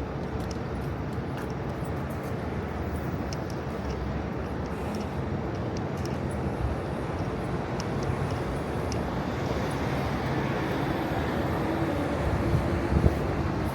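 Steady rumble of city street traffic, growing a little louder toward the end, with a couple of short knocks near the end.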